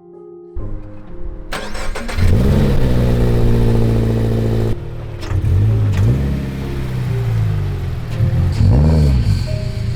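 Car engine starting: it catches about a second and a half in, flares up in revs and settles to a fast idle, with two short rev blips later on.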